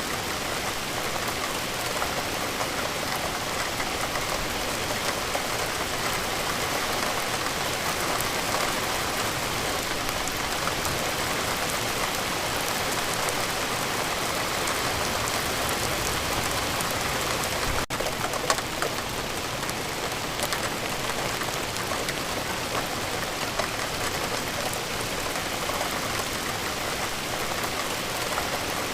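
Steady rainfall, an even hiss of rain with many individual drops pattering on a surface, briefly dipping for an instant about 18 seconds in.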